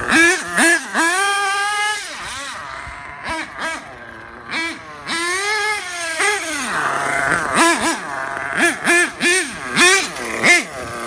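Dynamite .28 nitro engine of an RC truggy revving up and down in quick throttle blips, with a couple of longer high pulls and a short drop to idle partway through, as the truck is driven off-road.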